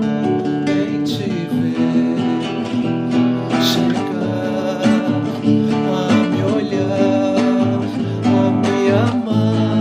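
Acoustic guitar (violão) playing a plucked and strummed passage of a caipira song at a steady level.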